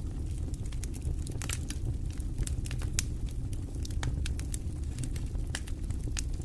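Wood fire burning in a fireplace: a steady low rumble of flames with irregular crackles and pops, a few sharper snaps among them.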